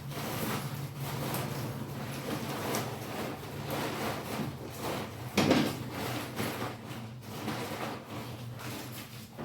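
Tent fabric rustling and crinkling as it is folded and handled, with one louder scrape about five and a half seconds in.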